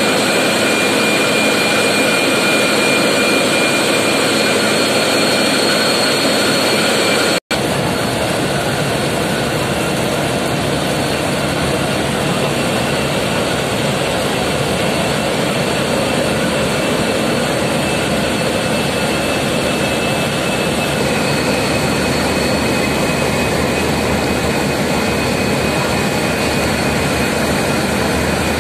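Engines of a river passenger launch running loud and steady in its engine room, a dense mechanical din with a steady hum. About seven seconds in it breaks off for an instant, and then it resumes with a deeper low end.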